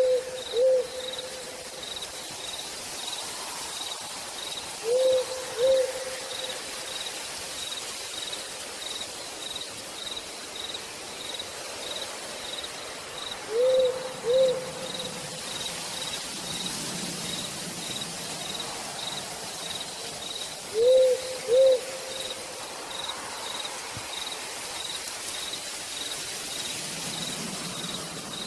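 Steady rain hiss with an owl giving four double hoots, several seconds apart, over an insect's even chirping at about two chirps a second.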